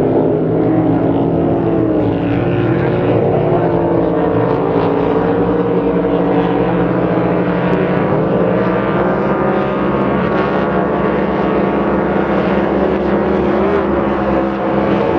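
Drag boat engines running steadily at low revs, their pitch wavering slightly up and down.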